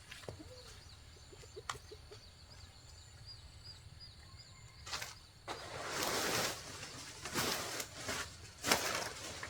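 Faint bird chirps over a quiet outdoor background, then from about halfway a run of loud, rough rustling noise bursts, the loudest near the end.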